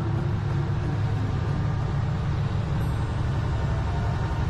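Fishing boat running at cruising speed: a steady low engine rumble with the rush of water along the hull.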